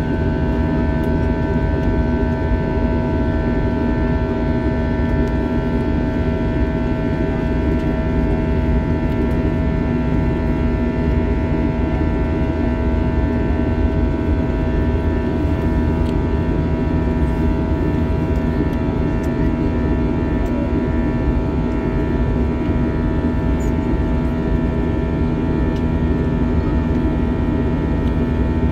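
Steady cabin noise of an Airbus A321 with IAE V2500 jet engines in flight: an even engine and airflow roar with a steady hum of tones over it.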